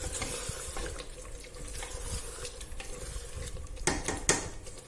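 A spoon stirring chicken cooking in masala in a pan, with scrapes and small clinks against the pot and two sharper knocks near the end.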